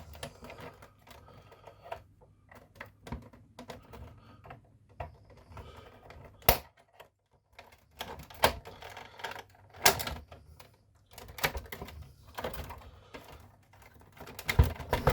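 Irregular plastic clicks and knocks as the side panels of a Nespresso Citiz coffee machine are pried and unclipped from the body, with a few sharp, louder snaps among them.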